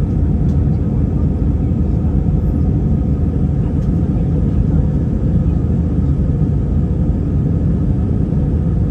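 Steady low rumble of a jet airliner's engines and airflow, heard from inside the passenger cabin during the climb after takeoff.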